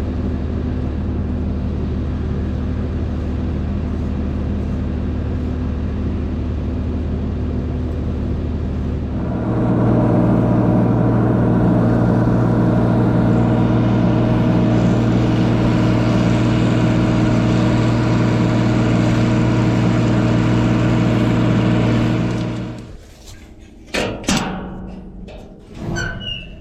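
Tractor engine running steadily at low speed, then throttled up about nine seconds in and holding a higher, louder speed. It cuts off near the end, followed by a few knocks and clicks.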